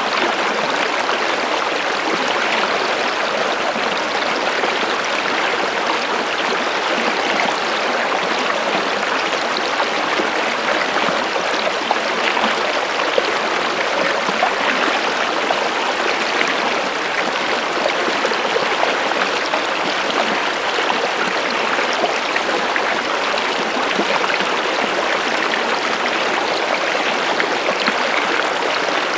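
Water running steadily in a stream, an even splashing sound without pauses.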